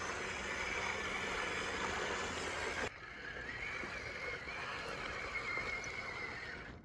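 Small electric motor and gearbox of a radio-controlled model truck whining steadily over a noisy rumble, with an abrupt change in the sound about three seconds in.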